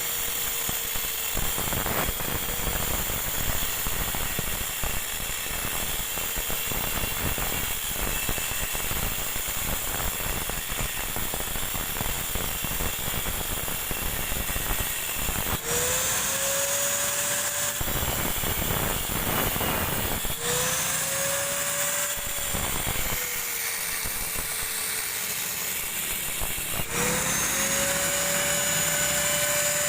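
A power tool working on a refrigerator compressor, with many rapid knocks and scraping. Its motor spins up with a rising whine three times, about 16, 20 and 27 seconds in, each time settling into a steady tone.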